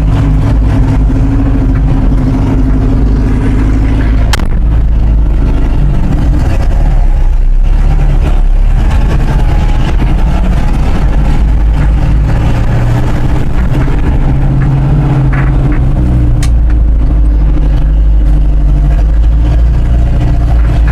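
Engine of a 1974 Chevrolet grain truck running loudly as the truck drives off under its own power for the first time after sitting, its pitch rising and falling with the throttle. Two sharp clicks, one about four seconds in and one about sixteen seconds in.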